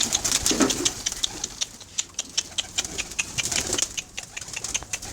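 Domestic pigeons' wings flapping and clapping in a rapid run of sharp clicks as the birds are released to fly.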